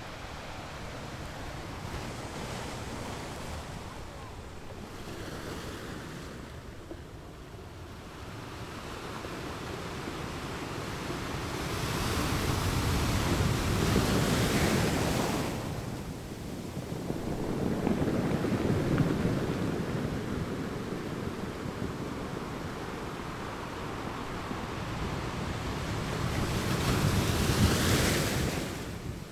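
Beach waves breaking and washing in, the surf swelling and falling back in repeated surges. The surf is loudest about halfway through and again just before the end.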